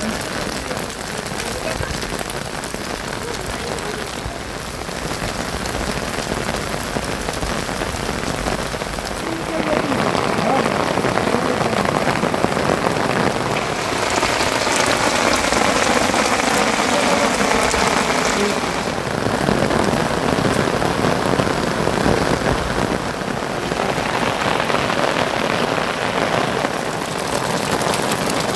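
Heavy monsoon rain falling steadily on surfaces: a dense, even hiss that grows louder about a third of the way in.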